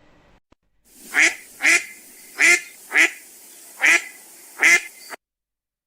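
A duck quacking six times, roughly in pairs, over a light background hiss; the recording cuts off suddenly near the end.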